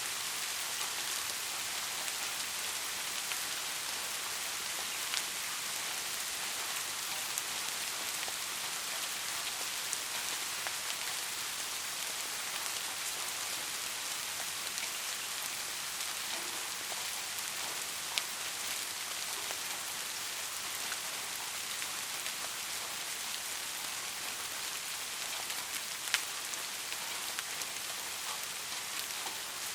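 Steady rain falling, a constant hiss with scattered louder drops ticking sharply, the clearest about 5, 18 and 26 seconds in.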